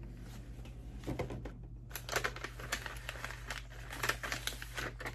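Packaging crinkling and rustling in hand as a gift box of treats is unwrapped and opened, in a dense run of small crackles with a brief pause about a second and a half in.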